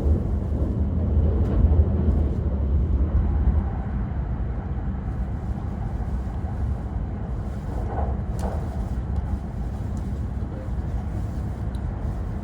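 Steady low rumble of a Hayabusa Shinkansen train running at speed, heard from inside the passenger car; it drops to a somewhat lower level about three and a half seconds in.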